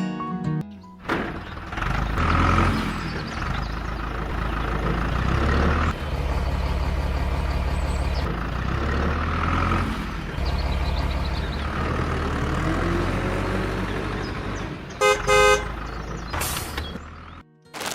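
Vehicle engine running, its note shifting every few seconds, then a horn honking briefly about 15 seconds in.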